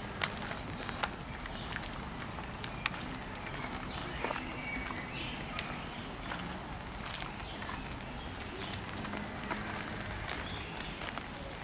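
Songbirds in the garden trees calling: short high, quickly falling trills every few seconds, over a steady background hiss with scattered sharp clicks.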